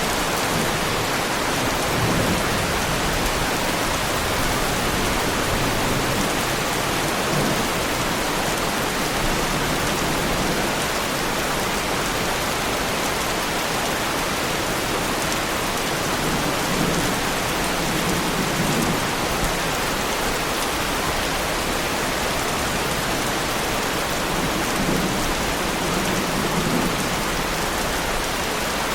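Heavy rain falling steadily on a Lamborghini Huracán, a dense, even patter of drops on the car. Soft low rumbles of thunder swell up a few times.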